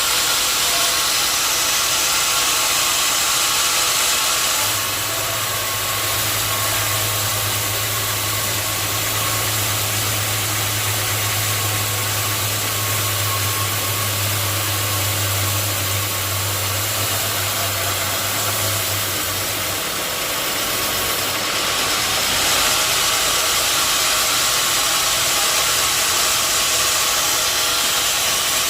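Sawmill running: a loud, steady hiss over an engine note. A low hum joins about five seconds in and drops out near twenty seconds in.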